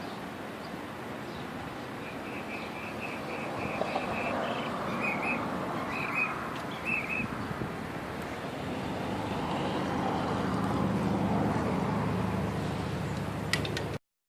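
Outdoor background noise with a bird chirping in a quick run of short notes, then a vehicle passing, its hum swelling up before the sound cuts off suddenly.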